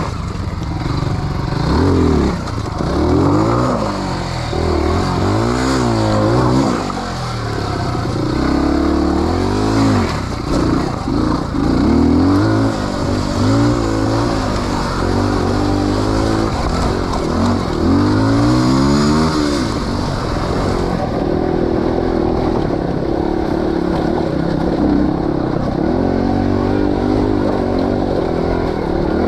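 Off-road motorcycle engine revving up and dropping back again and again, the pitch rising and falling every second or two, running steadier in the last few seconds.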